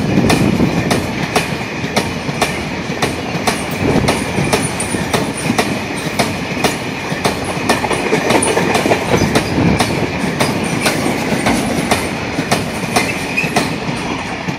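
Freight train rolling past, its wheels clicking over the rail joints in a steady rhythm of about three clicks a second over a continuous rumble, with a faint steady squeal of wheels on the rails.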